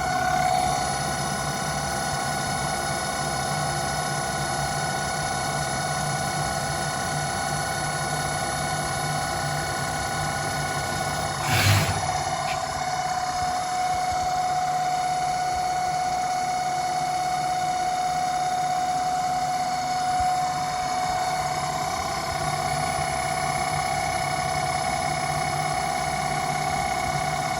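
Home-built CNC lathe running: a steady machine hum with a high whine from its motors, and one short loud knock about twelve seconds in.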